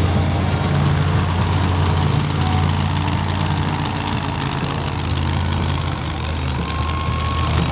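Monster truck engines running at a steady low idle, a deep continuous rumble without revving.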